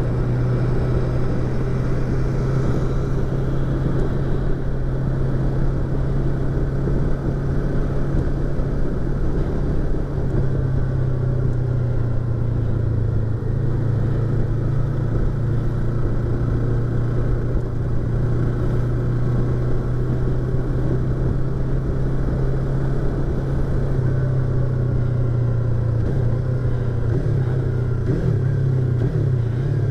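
Yamaha YZF-R25's parallel-twin engine and exhaust running steadily, heard from inside the rider's helmet. The engine note wavers and shifts in pitch near the end.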